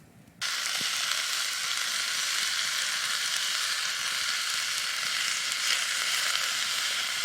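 Sliced peppers and onions sizzling in a pan over a campfire: a steady frying hiss that starts abruptly about half a second in.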